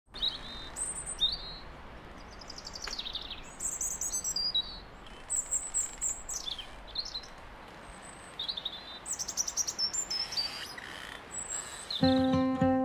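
Several songbirds chirping and trilling over a steady background hiss. Acoustic guitar music starts near the end.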